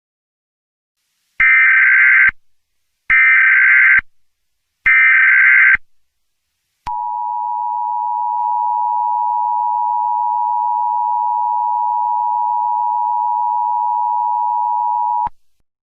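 Emergency Alert System SAME header: three short bursts of buzzing data tones, about a second each with short gaps, followed by a long steady attention tone of about eight seconds that cuts off sharply. Together they mark the start of a new emergency alert.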